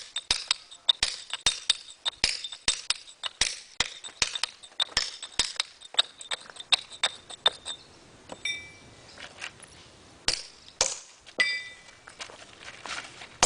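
Steel hammer striking a chisel on stone in quick, even blows, about three or four a second, each with a metallic ring. After about eight seconds the blows come more sparsely, and some ring out with a clear tone.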